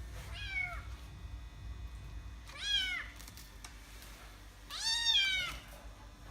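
A kitten meowing three times, in short rising-then-falling high-pitched calls. The first is faint and the last is the longest and loudest.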